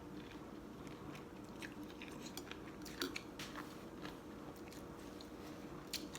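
A person chewing a mouthful of noodles, with soft wet mouth clicks and smacks at an uneven pace.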